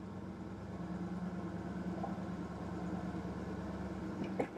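Dodge Durango's engine running steadily at low speed while the truck is eased into position, a steady hum. A short click comes near the end.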